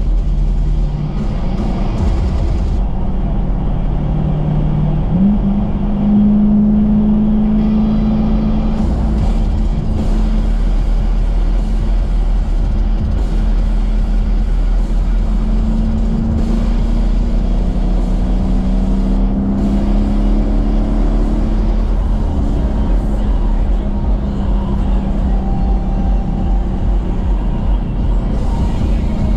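Dodge Challenger engine and exhaust droning steadily while cruising, its pitch stepping up about five seconds in and then drifting gently with road speed. Music plays underneath.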